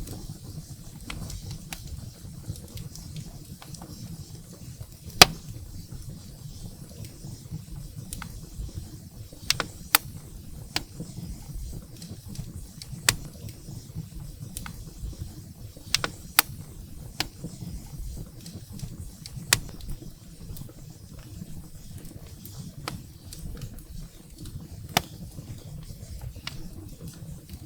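Wood fire burning in a fireplace: a steady low rumble of flames with sharp, irregular crackles and pops from the burning firewood, the loudest about five seconds in.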